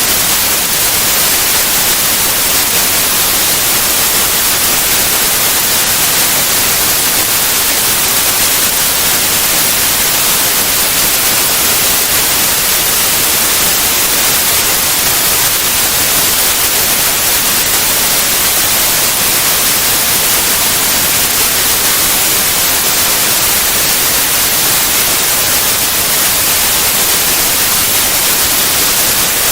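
Steady white noise: an even, unchanging hiss across all pitches, strongest in the treble, with no breaks or events.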